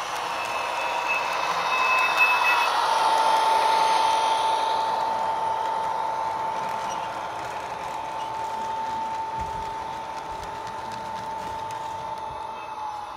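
Model train running on its track: a steady whine from the locomotive's motor under wheel-on-rail noise. The noise grows louder about two to four seconds in, then slowly fades.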